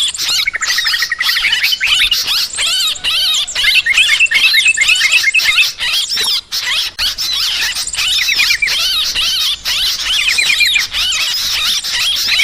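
Yellow-vented bulbuls in a dense, agitated chorus: many chattering and bubbling calls overlapping without pause, the kind of recording played to lure birds to a trap.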